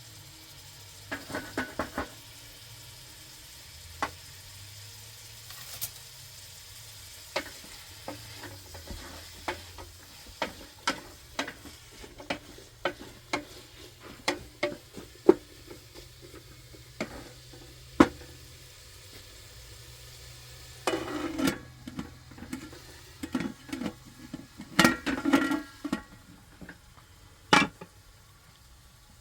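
Irregular sharp clicks and light knocks of objects being handled, with three short clattering spells: about a second in, about two-thirds of the way through, and again a few seconds later. A faint steady low hum lies underneath and stops near the end.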